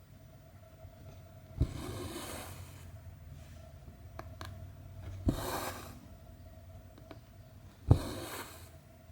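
Cross-stitch needle pushed through 14-count Aida cloth and cotton thread drawn through after it, three times: each stitch is a sharp tap followed by about a second of swishing as the thread is pulled tight. A few faint ticks fall in between.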